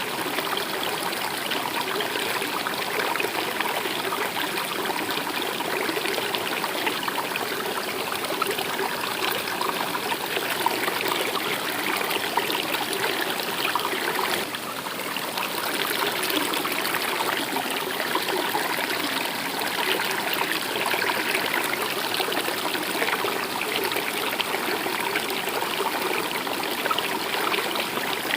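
Stream water running and trickling steadily, a continuous babbling rush with a brief dip about halfway through.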